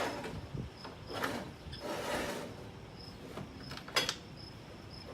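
Crickets chirping steadily in the background, with a few brief scraping, rustling handling noises and one sharp metallic clank about four seconds in.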